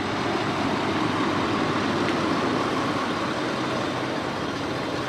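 Pickup truck engine running steadily at idle, with an even, unchanging noise.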